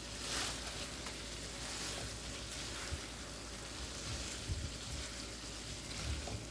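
Chicken in a thick, nearly dry masala sizzling in a nonstick kadhai while a spatula stirs it, with soft scrapes and a few light knocks.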